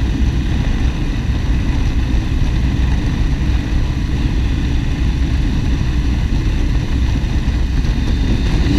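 Motorcycle riding along at a steady speed: a constant low engine drone mixed with wind noise, with no change in pitch.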